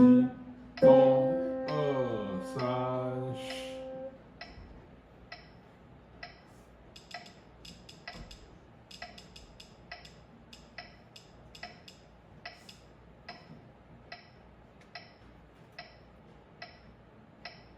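Piano notes and chords ringing out and fading away over the first few seconds, followed by a faint, steady metronome click a little more than once a second.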